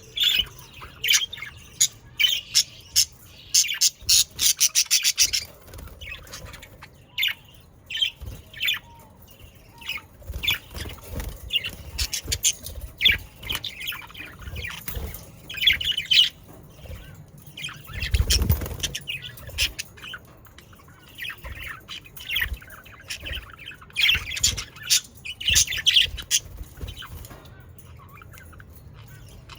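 A flock of budgerigars chirping and chattering, with many short, high chirps and squawks overlapping, a quick run of them a few seconds in. A brief low rumble about two-thirds of the way through.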